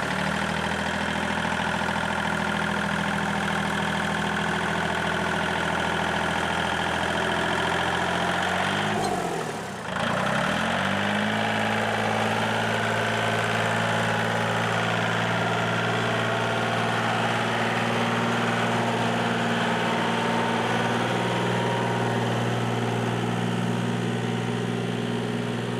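An engine idling steadily. About nine seconds in, the pitch briefly sags and comes back up, then settles at a slightly faster idle.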